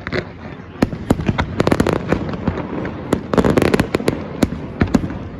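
Fireworks going off: a string of sharp bangs and pops with two dense bursts of rapid crackling, one about a second and a half in and one around three and a half seconds in.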